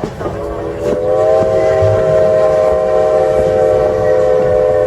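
Steam locomotive whistle blowing one long blast, a chord of several tones held steady, over the rumble of the moving train.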